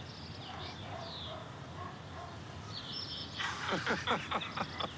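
Songbirds chirping outdoors, with short high calls, then a louder run of quick falling calls about three and a half seconds in.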